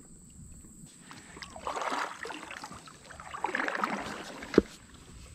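Two kayak paddle strokes swishing through the water, each swelling and fading, about a second and a half apart, then a single sharp knock near the end.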